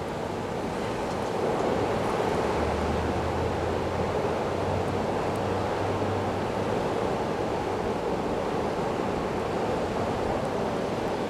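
Snowstorm wind blowing steadily, an even rush of noise with no gusts or breaks.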